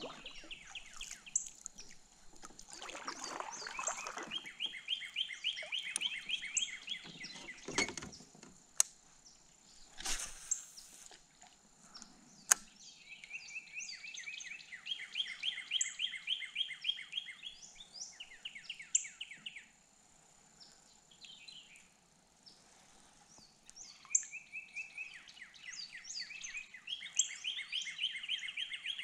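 Wild songbirds singing: one bird repeats a rapid trill of short notes in phrases of a few seconds, with higher chips from others. In the first half come a few sharp knocks and short swishes.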